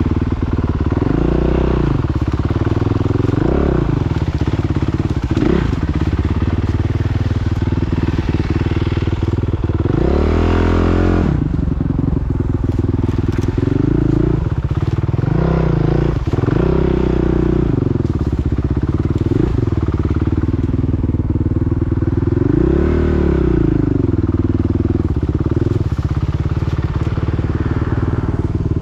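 Motocross motorcycle engine running loud and hard, its pitch rising and falling again and again as the throttle is opened and shut, with the biggest swells about a third and three-quarters of the way through.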